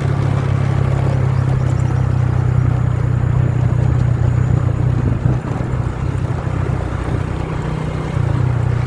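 Motorbike engine running steadily at cruising speed while riding, with wind and road noise on the microphone, over a road that has turned rough.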